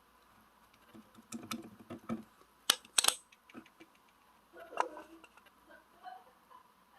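Pink slime being squished and pressed by hand, making sticky crackling and clicking sounds, with two sharp pops about three seconds in.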